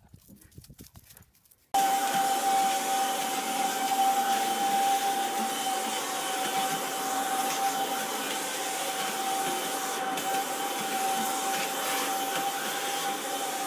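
Vacuum cleaner running steadily, a loud rushing noise with a steady high whine, starting abruptly about two seconds in after near quiet.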